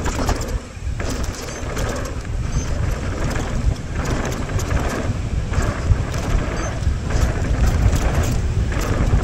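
Mountain bike rattling and clattering down a rough dirt trail, its tyres rumbling over bumps and water bars, with steady wind rush on a helmet-mounted microphone.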